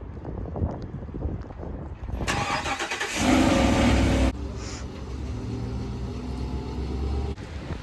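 Car engine starting: the starter cranks about two seconds in, the engine catches and runs loudest for about a second, then settles to a steady idle.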